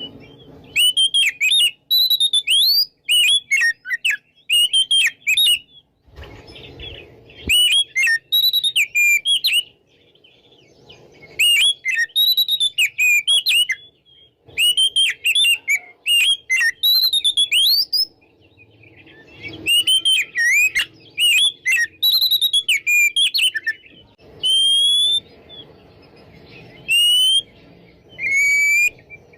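Oriental magpie-robin (kacer) singing in full, open song: loud, varied whistled phrases a second or two long with short pauses between them, and near the end a few single rising whistles.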